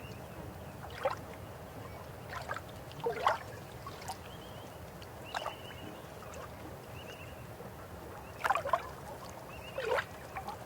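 River water flowing steadily, with a gurgle or splash every second or two, the loudest pair about three quarters of the way in. Short runs of quick high chirps, like a small bird's, come several times over the water.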